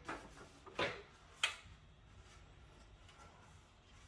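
Three light knocks and clicks of computer case parts being handled during a teardown, in the first second and a half, followed by quiet.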